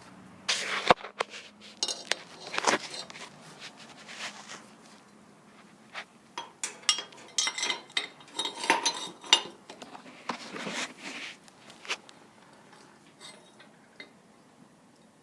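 Metal parts clinking, knocking and scraping as they are handled, in irregular clusters of sharp clanks with short ringing, thinning out to a few faint ticks near the end.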